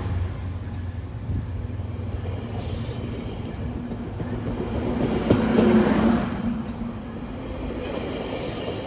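Passenger train running past on the tracks: a steady rail rumble that swells again about five to six seconds in, with a sharp click and a faint high wheel tone at the peak.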